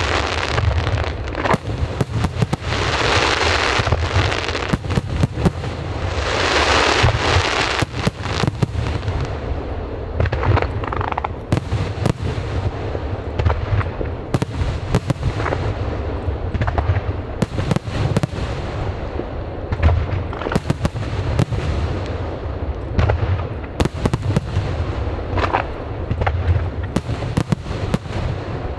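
Aerial fireworks going off in a continuous barrage: rapid sharp bangs and booms over a constant rumble, with spells of dense hissing crackle, thinning toward more spaced bangs in the second half.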